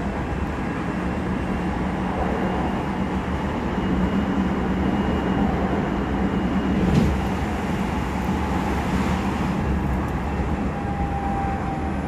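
Odakyu 3000-series electric train heard from inside the passenger car while running at speed: steady rumble of wheels on rails with a low hum and a faint high whine from the Mitsubishi IGBT inverter drive. A single sharp knock comes about seven seconds in.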